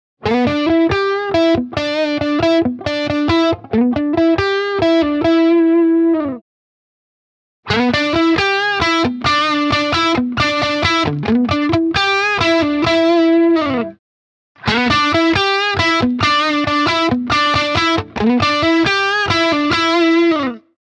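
Electric guitar with Leosounds Fireball single-coil pickups playing the same short picked phrase three times, each ending on a held note and separated by brief pauses, as the guitar's volume and tone pots are checked.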